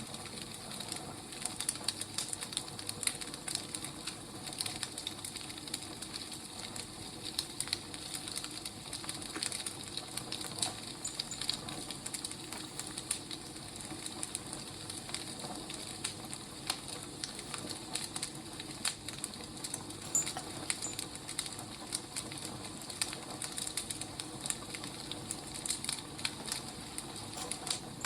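Wood fire burning: a steady hiss with irregular sharp crackles and pops from the burning logs.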